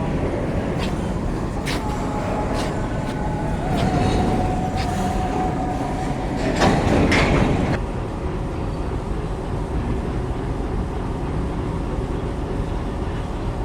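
A train running at a railway station platform, with a steady rumble throughout and a few sharp clicks in the first few seconds. A thin steady tone is held for about five seconds, and a louder noisy burst comes about seven seconds in.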